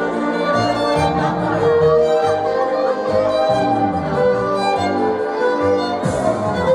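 Violin playing a fast melody over string and bass accompaniment, with a bright wash of noise coming in near the end.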